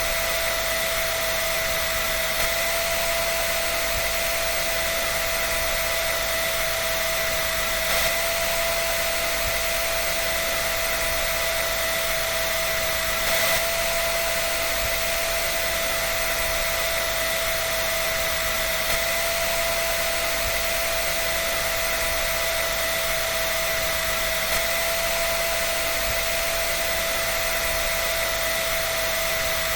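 Hair dryer running steadily: a constant rush of air with an unchanging motor whine.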